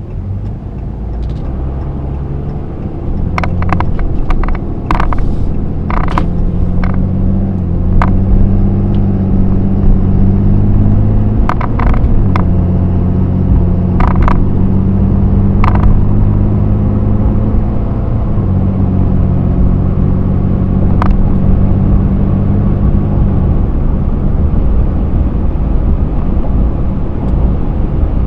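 Cummins 6.7-litre turbo-diesel of a Ram 3500 pickup pulling under way, heard from inside the cab with road noise. The engine note builds over the first few seconds, shifts in pitch twice as the transmission changes gear, and eases off near the end. Sharp clicks and knocks come through in the first half.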